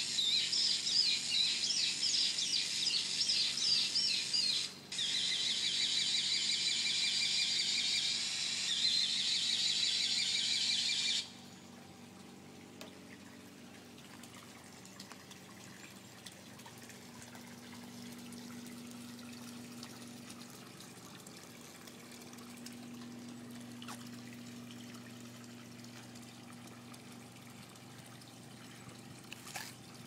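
A bird calling in rapid, continuous high chirps and squeaks, with a brief break about five seconds in, stopping abruptly about eleven seconds in. After that, much quieter water lapping and a low steady hum.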